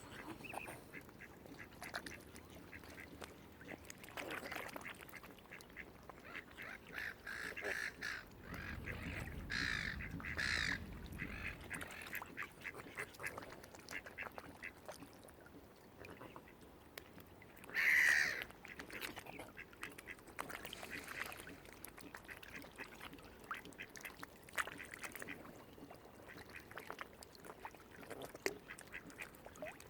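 Waterfowl calling on the water: a scattered run of short nasal calls, the loudest a little past halfway. A low rumble sits under the calls about a third of the way in.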